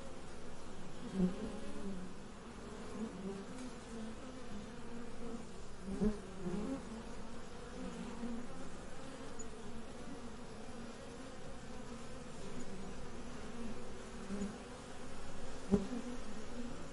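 Insects buzzing: a continuous, wavering hum with small swells in loudness.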